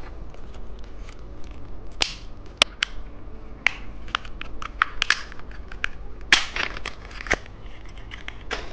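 Plastic lollipop packaging being opened by hand: crinkling and tearing, with a scatter of sharp clicks and snaps.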